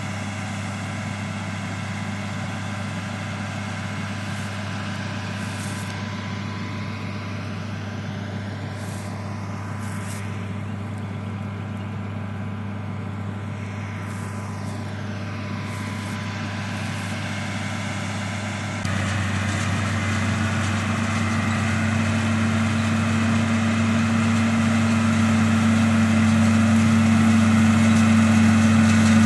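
Tractor's diesel engine running steadily under a baling job. It jumps louder about two-thirds of the way through and keeps growing louder toward the end, as it comes closer.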